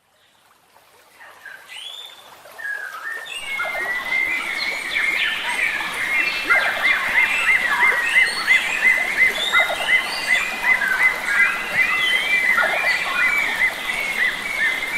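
Forest birdsong fading in from silence over the first few seconds: several wild birds calling and singing at once, one repeating a quick looping whistle about four times a second through the middle, over a steady rush of stream water.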